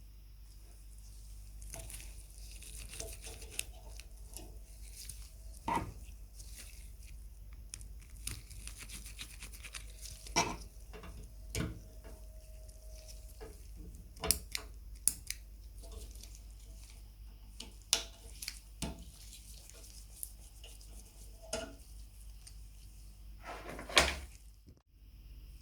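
Irregular clinks and knocks of small metal lamp parts being handled and set down on a workbench, the loudest one near the end, over a low steady hum.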